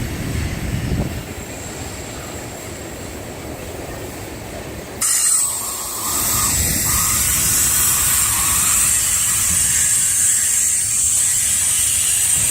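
Freight train cars rolling slowly past on the track with a low rumble; about five seconds in, a loud steady high hiss sets in suddenly and holds.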